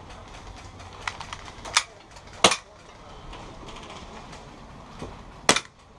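About four sharp single cracks at irregular spacing, the loudest about two and a half seconds in and again near the end, typical of single shots from airsoft guns.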